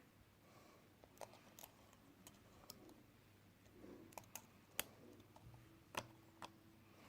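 Faint, scattered small clicks and taps from handling smartphone parts and tools during repair work, irregular and a little louder twice in the second half.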